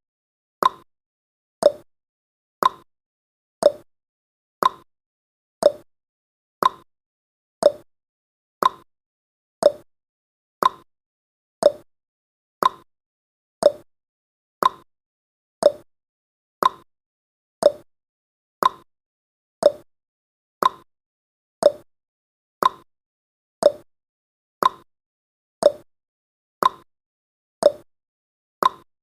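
Countdown timer's clock-tick sound effect: one short, sharp tick about every second, steady and even.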